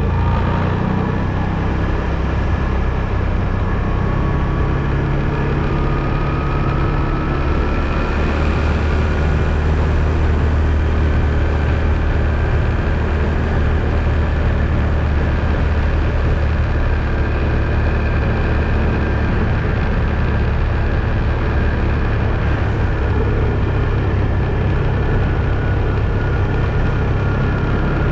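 ATV engine running steadily as the quad is driven, the drone shifting a little in pitch, with a faint whine that rises slowly a few seconds in.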